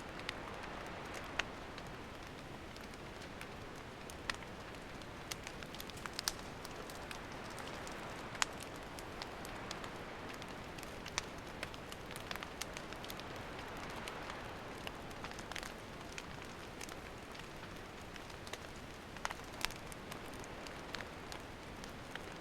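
Wood campfire burning: a steady soft hiss with irregular sharp crackles and pops scattered throughout, a few of them louder.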